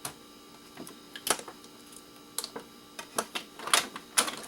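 Hard plastic and metal clattering and knocking as DVD drives are handled and set down: a dozen or so sharp irregular clicks and knocks, the loudest about a second in and near the end.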